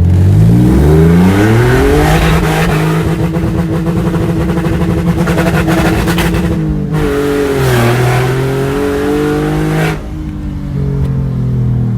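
BMW E46 M3 straight-six engine revving hard under acceleration. It climbs quickly to high revs and holds there against the rev limiter for several seconds. After a brief cut about seven seconds in it climbs again, then drops abruptly to lower revs about ten seconds in. This repeated limiter bashing is the abuse the owner says blew the engine.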